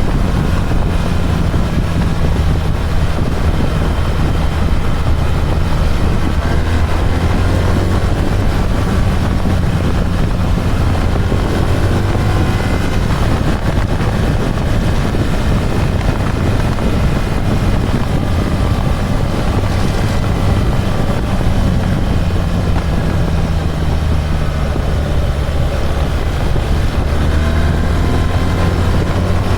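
BMW R1300 GS boxer-twin engine running while riding, its pitch rising and falling with the throttle and gear changes.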